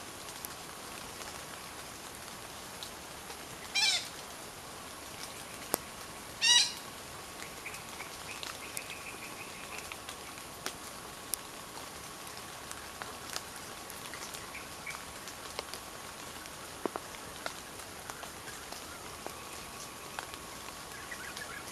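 Forest ambience with a steady high tone underneath. Two short, loud, harsh bird calls about four and six and a half seconds in, each falling in pitch, then a softer buzzy call shortly after and a few scattered clicks.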